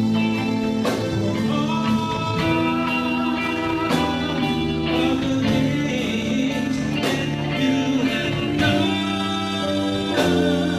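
Live gospel band music with guitar prominent over sustained chords and occasional drum hits.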